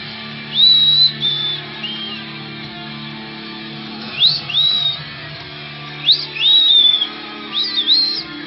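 Pet bird whistling: phrases of high, clear notes that swoop upward and then hold, coming in several bursts. Guitar music plays steadily underneath.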